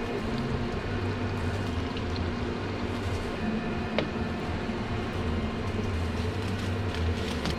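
Steady low machine hum of kitchen equipment, with a single sharp click about four seconds in.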